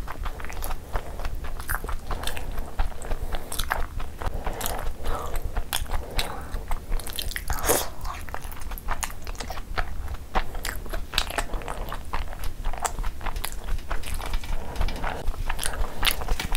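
Close-up mouth sounds of a person chewing a large mouthful of steamed chicken momo soaked in spicy jhol gravy. The chewing comes with frequent short smacks of the lips and mouth.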